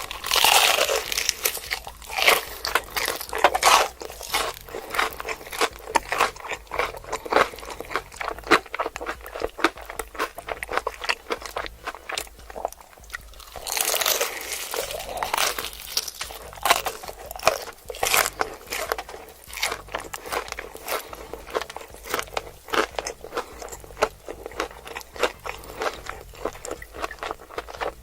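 Crispy fried chicken being bitten and chewed close to the microphone: dense, irregular crunching of the breading. Louder bites come at the start and again about halfway through.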